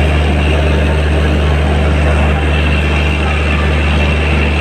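A WAP-7 electric locomotive standing with its cooling blowers and transformer running: a steady low hum under an even, fan-like rush that does not change.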